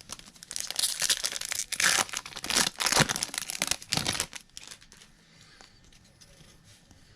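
A baseball card pack wrapper being torn open and crinkled, with dense crackling from about half a second in until about four seconds in.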